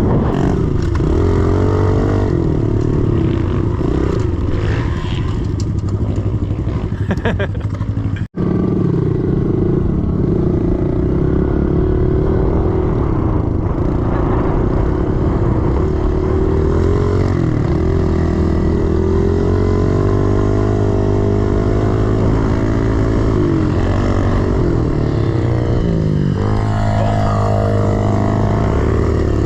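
Engine of a 110cc pit bike, a four-stroke single, running as it is ridden, its pitch rising and falling with the throttle. The sound cuts out for an instant about eight seconds in.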